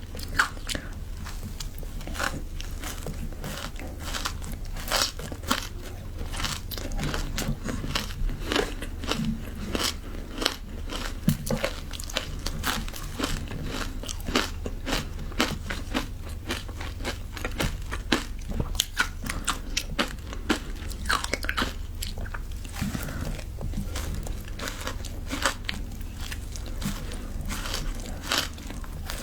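A person biting and chewing frozen matcha ice close to the microphone: rapid, irregular crunches and cracks of ice breaking between the teeth, over a steady low hum.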